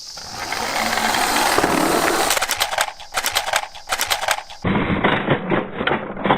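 Small plastic toy garbage trucks rolling and clattering on a wooden slope: a rolling rumble, then rapid runs of clicks and rattles as they knock together. An abrupt cut about two-thirds of the way through, followed by more clattering.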